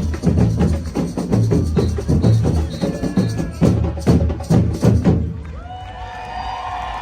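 Batucada samba percussion corps drumming in a dense, fast rhythm that ends in a few hard unison hits, then stops about five seconds in, leaving crowd noise.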